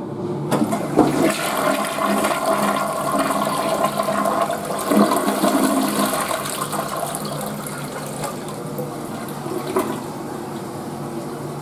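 Toilet flushing: a rush of water starts suddenly about half a second in, is strongest over the first few seconds, then settles into a quieter, steady run of water.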